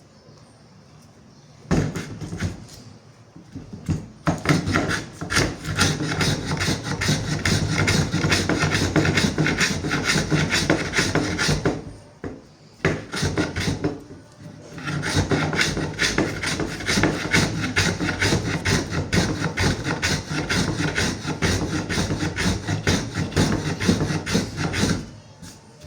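Wooden cricket bat handle being shaped with a rasp: long runs of quick, rough scraping strokes, broken by a pause of a couple of seconds about halfway through.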